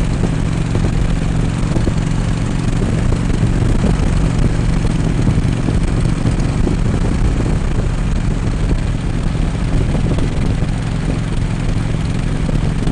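Harley-Davidson Road King's V-twin engine running at a steady cruising speed, heard from the saddle under a steady rush of wind and road noise.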